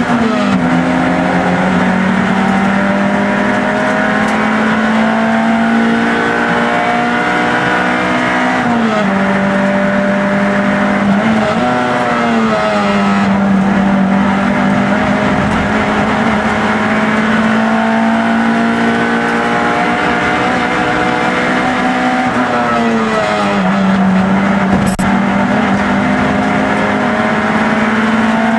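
Peugeot 106 race car's four-cylinder engine heard from inside the cabin, running hard at high revs, its pitch stepping down and back up several times.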